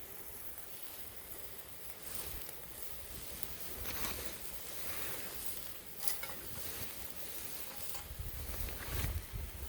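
Cooking over a small wood fire: a steady hiss with a few sharp crackles and pops, the loudest about four, six and nine seconds in.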